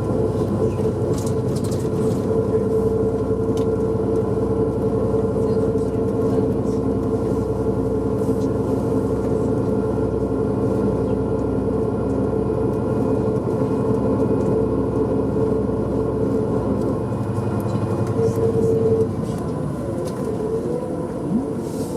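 Tour vehicle running steadily, heard from inside the cabin: a constant engine and road drone with a held hum just under 500 Hz. Near the end the low rumble drops away and the hum wavers and shifts in pitch, as the vehicle eases off.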